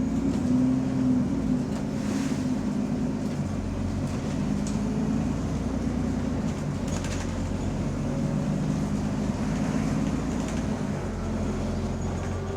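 Bus engine running while the bus drives between stops, heard from inside the saloon. The engine note rises and falls with the driving over steady road noise. The bus has a known exhaust leak.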